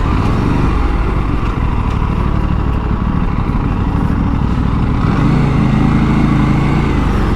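Aprilia RS 457's two-cylinder engine running under way, heard over a steady rush of riding noise; its engine note stands out more clearly for a couple of seconds about five seconds in.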